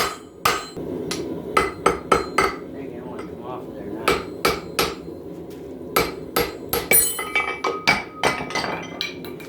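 Hand hammer striking steel on an anvil, about twenty blows in short runs with pauses between, some blows ringing, over a steady low rushing noise.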